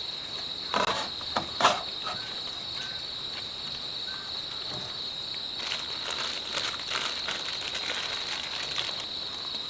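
A steady, high-pitched chirring of insects runs throughout. Two short clatters come about one and two seconds in.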